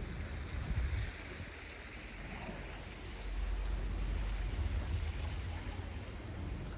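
Wind blowing across the microphone during a snowstorm: a steady rushing hiss with low rumbling gusts, easing a little in the middle and picking up again about three seconds in.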